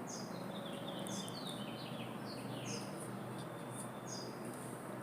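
A songbird singing a quick run of short, high chirps that slide downward in pitch, about two or three a second, over a steady low background hum.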